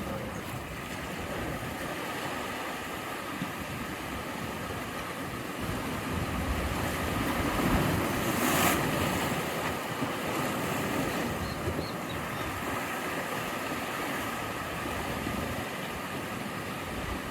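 Sea waves washing onto the shore in a steady rush, with one wave swelling and breaking about eight to nine seconds in.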